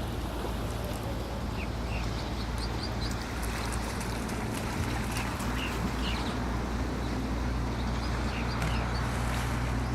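Short, high bird chirps repeating every second or so over a steady low rumble and an even noise haze of the open shore.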